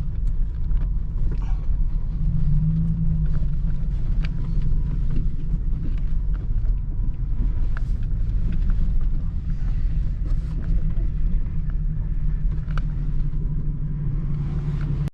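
Pickup truck on the move: a steady low engine and road rumble, with scattered light clicks and rattles.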